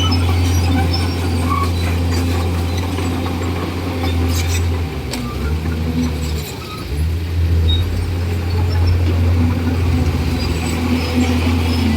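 Komatsu D41E bulldozer's diesel engine running steadily, its pitch dropping briefly about five to seven seconds in and then picking back up.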